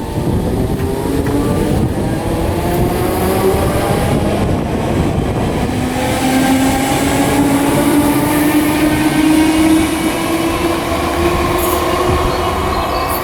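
Merseyrail electric multiple unit running through the station, its traction motors giving a whine that climbs slowly in pitch as the train gathers speed, over the rumble of the wheels on the rails.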